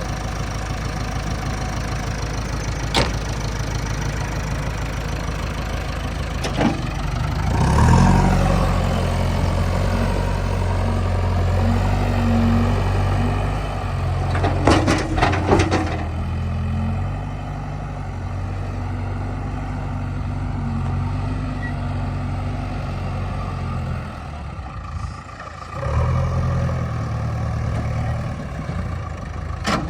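Heavy machine's diesel engine running, picking up revs about 8 seconds in, with a few metallic clanks around the middle and a short drop in revs a little before the end.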